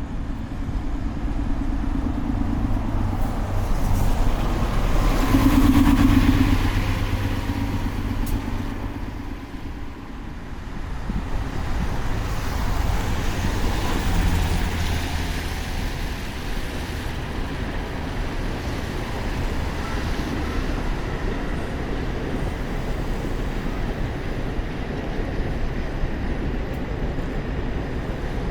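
Road traffic heard from a moving bicycle on a wet night road: motor vehicles passing, swelling twice, around five seconds in and again around fourteen seconds in, over a steady hiss of wind and wet tyres.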